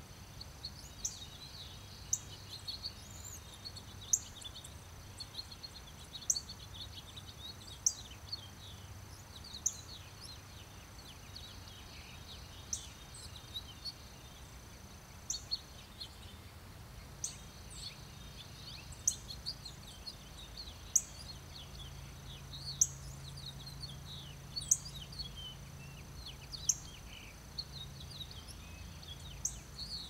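Woodland birds chirping and calling, with one sharp short call repeated every second or two over a busy background of quicker chirps. A steady high-pitched tone runs underneath, breaking off briefly about halfway through.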